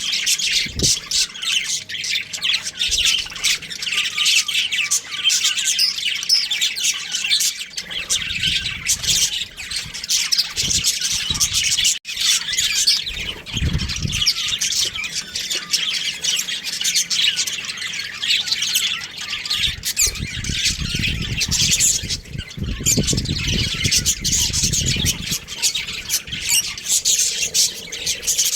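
Budgerigars chirping and chattering continuously, many quick overlapping calls at once, with stretches of low rumble partway through.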